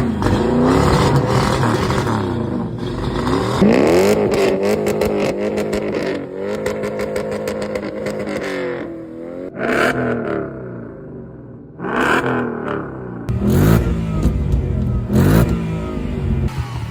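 American muscle car engines revving and accelerating, the revs rising and falling repeatedly, with a quieter spell around ten to twelve seconds in before sharp throttle blips return.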